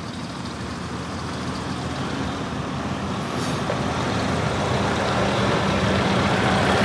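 Scania R480 truck's diesel engine running, growing steadily louder.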